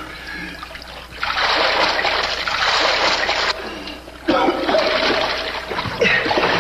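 Water splashing and sloshing in two long stretches, about a second in and again past the middle, as a diver moves through the water of a flooded mine.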